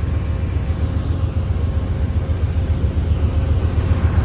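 A pair of GE P42DC diesel locomotives with 16-cylinder engines idling, a steady low rumble.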